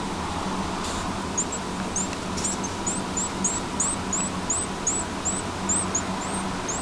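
Baby northern cardinal giving a string of thin, high chirps, about two to three a second, over a steady low hum.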